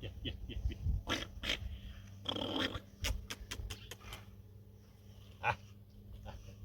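A dog making short, separate sounds, mixed with small clicks and knocks.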